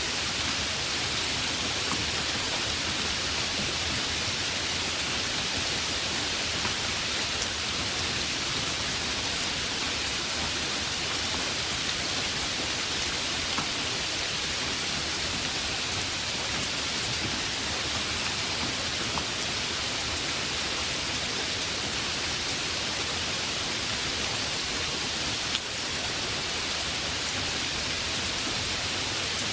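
Heavy rain falling steadily, with a dense even hiss and scattered drop ticks.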